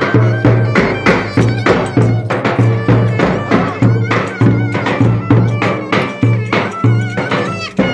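Live traditional Turkish folk dance music: a steady, even drum beat under a wavering melody line.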